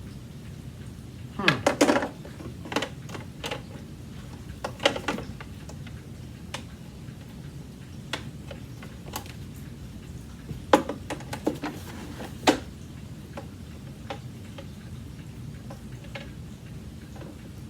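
Scattered clicks, knocks and clatter of hard parts being handled on an old Hoover vacuum's filter and bag compartment, in irregular clusters with a few loud knocks, over a steady low hum.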